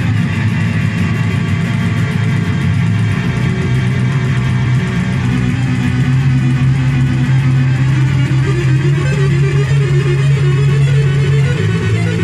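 Noise music from a handmade synthesizer: a pitch dropping sharply at the start, then a dense, loud low drone with a wavering tone that slowly climbs in the second half.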